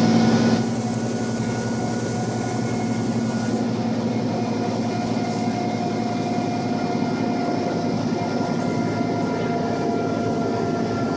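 Scania bus diesel engine pulling under load up a long climb: a steady drone with a constant whine over it. It drops a little in loudness about half a second in, then holds even.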